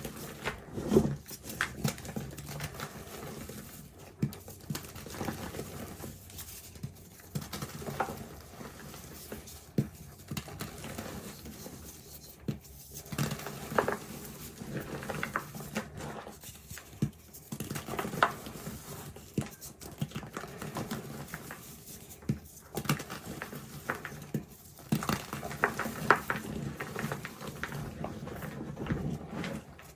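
Reformed gym chalk being crushed and crumbled, a continuous irregular run of soft crunches and crackles with sharper crunches every second or so.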